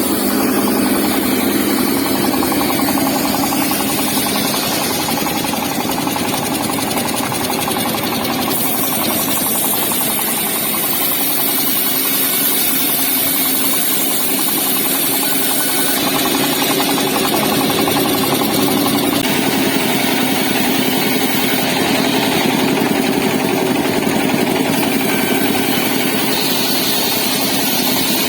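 Wood saw driven by a car engine, running steadily and loudly, with a rattling, hissing edge that swells and eases a few times as it works.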